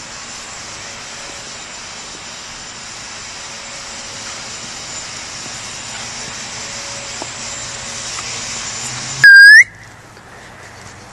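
Steady outdoor background hiss. About nine seconds in, a sudden, very loud, short whistle rises briefly in pitch, then cuts off.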